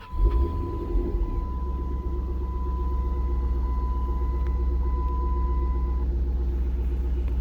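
2010 Dodge Challenger SRT-8's 6.1-litre HEMI V8 starting on push-button ignition: a powerful startup that catches a fraction of a second in, flares up, and settles within about a second and a half into a steady idle.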